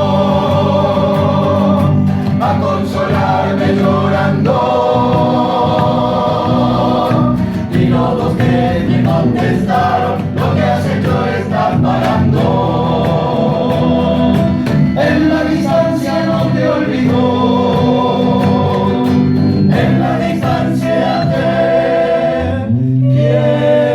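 A choir singing in harmony, several voices holding long phrases with vibrato.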